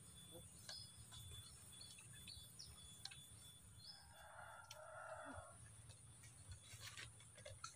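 Near silence, with faint, brief bird chirps every so often.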